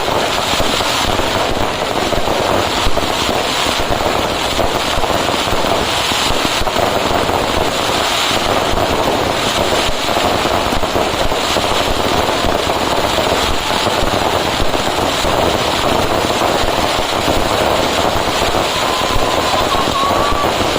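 Dense fireworks barrage: firecrackers crackling in a continuous, unbroken rattle of countless small bangs. A thin whistle-like tone comes in near the end.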